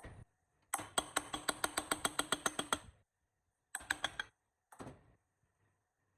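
A rapid, even run of sharp clicks, about nine a second for two seconds, then two shorter bursts of clicking.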